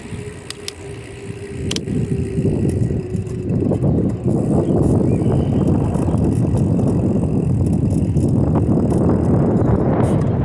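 Bicycle ridden at full speed, with wind rushing over the microphone that swells about two seconds in and then stays loud. Early on a faint steady whine and a few light clicks are heard before the rush covers them.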